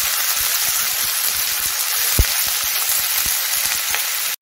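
Cauliflower florets sizzling in hot oil in a frying pan just after being added: a steady hiss with scattered small pops, and a single knock about two seconds in.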